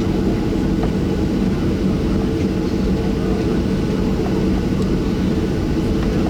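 Boeing 737-700 jet engines running, a steady low drone with a constant hum in it.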